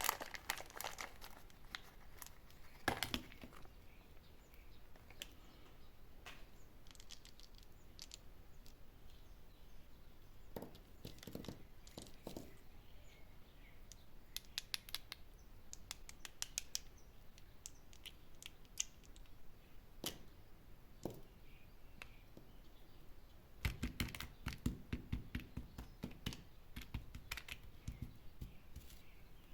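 Plastic candy wrappers crinkling and tearing as sweets are unwrapped, with scattered sharp clicks and crackles and a denser run of crackling about 24 seconds in.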